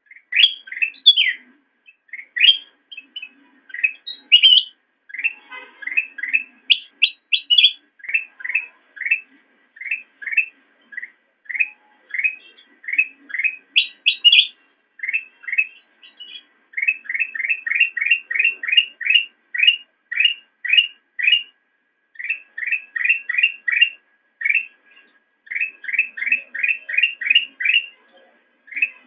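Kutilang emas (golden bulbul) singing: a long run of short, clear, sharply rising and falling whistled notes, a few a second, in phrases that grow faster and more even in the second half.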